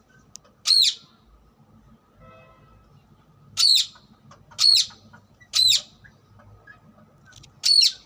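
Rose-ringed (ring-necked) parakeet giving five short, high-pitched calls, each rising and then falling in pitch: one about a second in, three evenly spaced in the middle, and one near the end.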